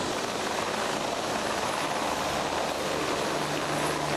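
Helicopter running overhead: a steady rush of engine and rotor noise, with a low steady hum joining about three seconds in.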